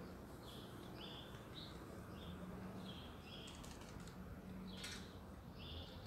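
Quiet background with a small bird chirping short notes over and over, about two a second. A few sharp clicks come a little past the middle.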